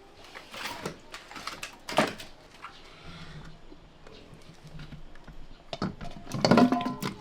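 Scattered light clicks and knocks of kitchen utensils and dishes being handled during cooking. A louder, brief noise comes near the end.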